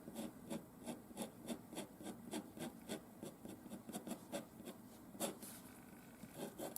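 Paint being rubbed and dabbed onto paper in short repeated strokes, about three to four a second, with a brief lull shortly before the end.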